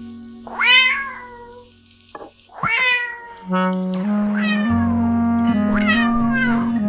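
A cat meowing four times: two clear meows in a quiet gap, then two more over background music that comes back about halfway through.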